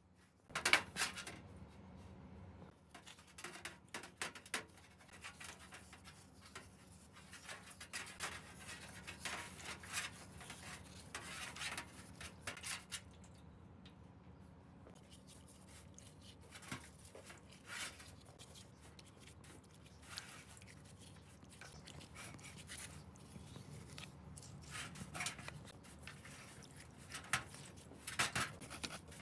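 Irregular clicks, light knocks and scraping of small metal parts and hand tools being handled, over a low steady hum.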